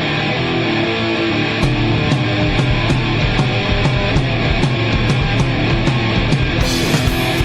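Heavy rock song by a band with electric guitars and drums: steady hi-hat ticks, with the full kit and cymbals crashing in near the end.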